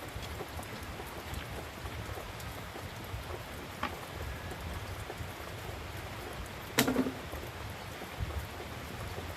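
Steady rain falling, with a faint click about four seconds in and a single sharp knock, the loudest sound, about seven seconds in.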